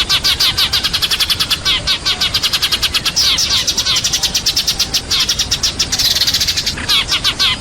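A flock of sparrows chirping rapidly and without a break, many calls overlapping, with a burst of denser, higher chatter about six seconds in. It is a sparrow flock call of the kind used as a lure to draw other sparrows in.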